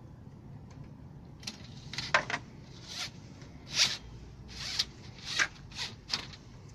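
A run of about ten short rasping scrapes at an irregular pace over some four seconds, above a low steady background hum.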